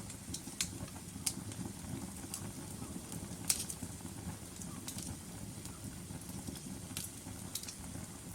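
Log fire crackling: irregular sharp pops and snaps over a low steady rumble of burning wood, with the loudest pop about three and a half seconds in.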